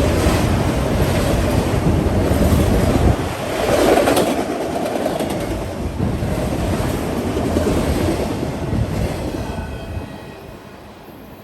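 A train going by on the rails: a heavy low rumble for the first few seconds, then the rushing clatter of the cars' wheels, fading away near the end.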